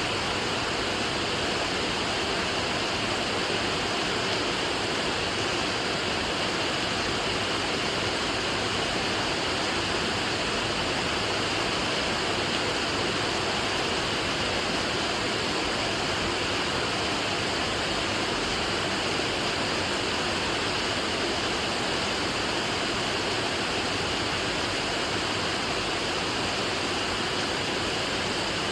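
Steady rain falling, an even dense hiss with no separate drops standing out.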